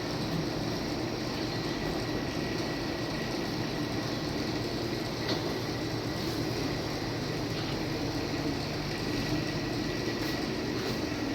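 Steady mechanical running noise with a faint high steady whine, and a few light clicks.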